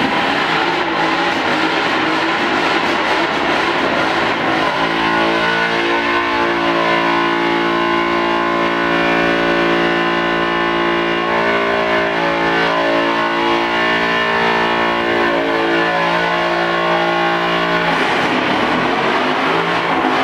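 Car engine revving hard amid tyre smoke. For about thirteen seconds in the middle it holds a steady high pitch, typical of a burnout or donut with the wheels spinning, then falls away near the end.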